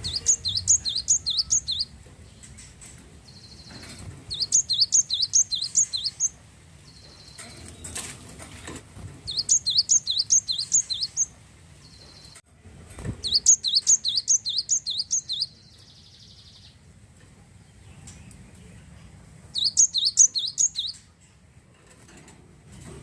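Glatik wingko (cinereous tit) singing: five bursts of quick, high, repeated chirps, each about one and a half to two seconds long, with pauses of a few seconds between them.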